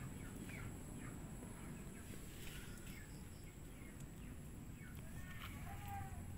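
Faint scattered chirps of birds over a low, steady background noise.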